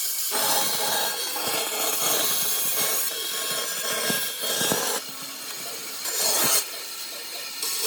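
A tool working oak: a noisy scraping or cutting sound on wood that drops in level about five seconds in and swells again briefly around six seconds.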